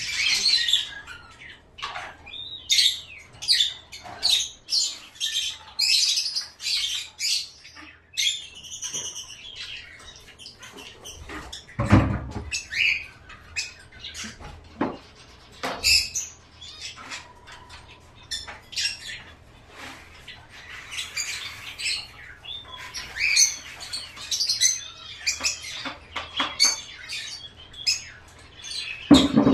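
Small caged pet birds chirping and squawking in quick, busy bursts of high-pitched calls, with a couple of dull thumps, one about halfway through and one near the end.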